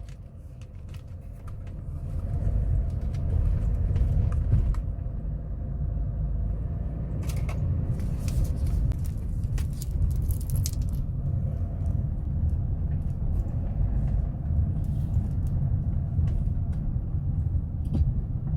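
Steady low rumble of a car driving, heard from inside the cabin. It builds up about two seconds in, with a few light clicks and rattles over it.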